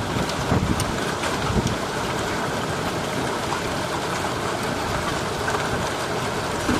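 Heavy thunderstorm rain pouring down steadily, with gusts of wind buffeting the microphone in low thumps during the first two seconds.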